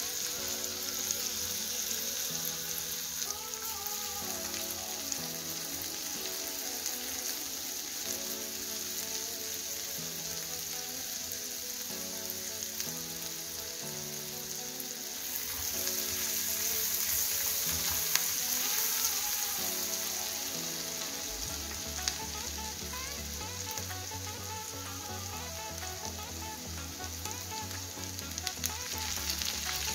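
Chopped onion sizzling and frying in hot oil in a pan, the sizzle swelling louder for a few seconds midway. Background music with stepping notes plays underneath, and a bass line comes in after about twenty seconds.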